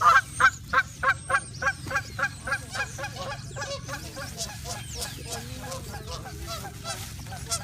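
Flock of birds being fed with rice, calling in a rapid run of repeated calls, about three to four a second, loud at first and fading after about four seconds into quieter, scattered calls.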